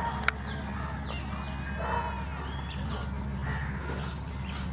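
A few faint bird chirps in the middle, over a steady low hum, with one sharp click just after the start.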